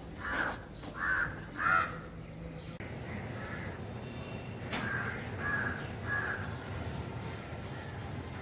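A crow cawing: three caws in quick succession at the start, then three fainter caws about five seconds in, with a single sharp click just before them.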